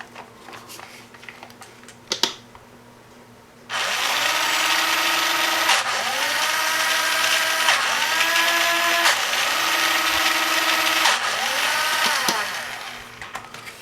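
A sharp click, then the Arduino robot's small electric drive motors run for about nine seconds in several stages, their whine dipping and rising again at each change of speed or direction. The robot is now powered through the newly wired switch and runs as intended.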